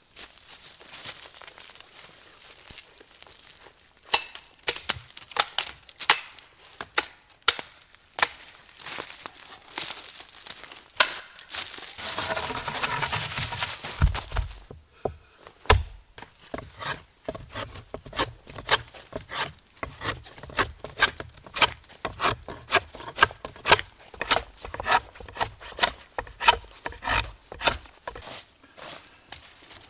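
Hand work with wood: a run of sharp wooden clicks and knocks, with a stretch of rustling and scraping about twelve seconds in. In the later part the knocks come fairly evenly, two or three a second.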